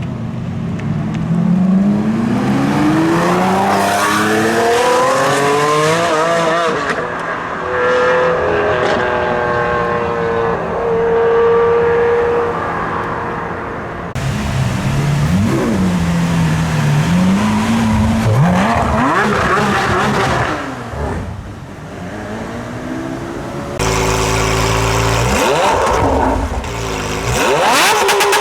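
Lamborghini supercar engines accelerating and revving in a run of short clips: the pitch climbs steeply in the first few seconds, holds steady, then after sudden cuts about halfway and near the end, further revs rise and fall.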